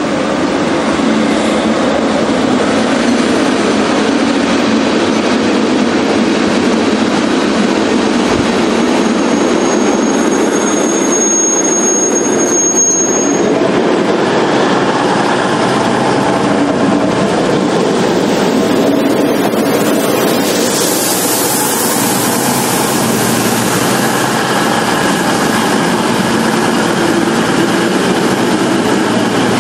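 Virgin Voyager diesel multiple unit running past, a steady loud rail rumble with a thin high wheel squeal for a few seconds about a third of the way in. The high hiss rises about two-thirds through.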